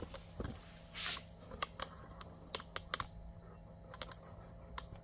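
Scattered light clicks and taps from tools and parts being handled, about a dozen irregular ones, with a short rushing scrape about a second in.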